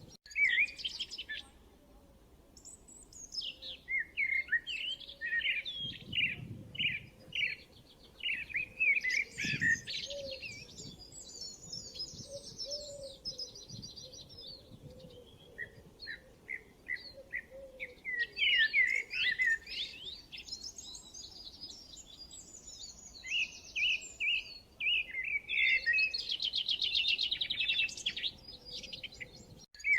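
Birds chirping and calling: runs of short, sharp chirps mixed with fast, high trills, with a lull of a couple of seconds past the middle.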